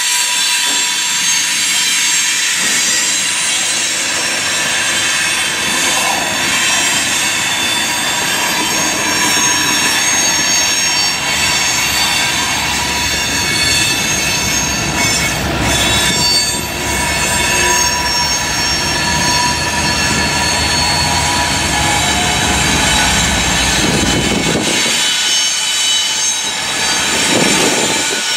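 Freight train rolling past: wheel flanges squeal on the rail in steady high tones over the rumble and clatter of the cars. The low rumble of mid-train Norfolk Southern diesel locomotives builds as they go by, then drops away sharply near the end.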